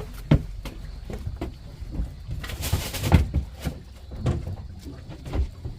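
Irregular knocks and clatter of gear being handled on a fishing boat, with a brief rustling hiss about two and a half seconds in.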